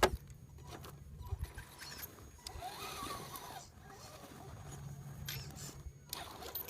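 RC scale rock crawler's electric motor and gear drivetrain whining as it drives, the pitch rising and falling about three seconds in, with scattered clicks and knocks of the truck working over rough ground.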